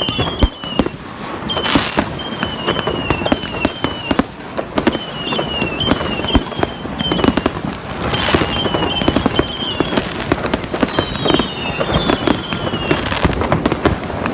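Fireworks going off: a dense run of rapid bangs and crackles, with repeated short falling whistles and one longer descending whistle near the end.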